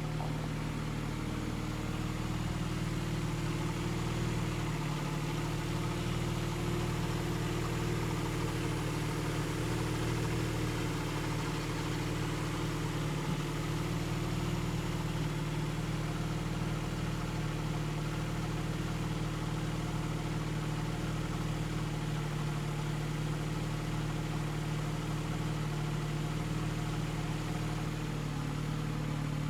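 Mercedes-Benz W210's 2.3-litre M111 four-cylinder petrol engine idling steadily at an even pitch.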